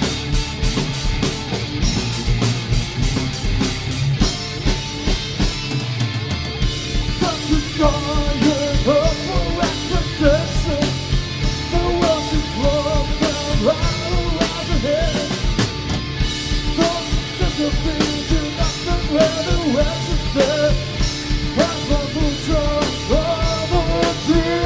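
Live rock band playing with a steady drum beat and heavy distorted guitars. A wavering lead melody line comes in about a third of the way through and carries on over the band.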